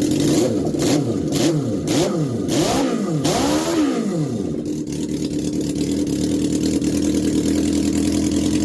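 The GSX-R 650 build's engine blipped up and down about five times in quick succession, each rev rising and falling in pitch, then settling to a steady idle about five seconds in.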